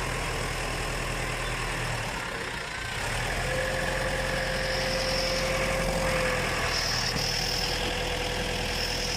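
Engine idling steadily in a workshop, with a thin steady whine joining it about three and a half seconds in and a faint high tone that comes and goes.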